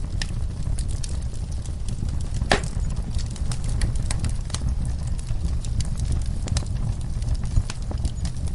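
Wood fire in a fireplace crackling, with irregular pops and snaps over a steady low rumble; one louder snap comes about two and a half seconds in.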